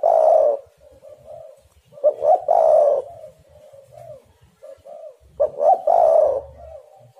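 Spotted dove (tekukur) cooing its repeated song: three loud phrases about every two and a half to three seconds, with softer coos in between.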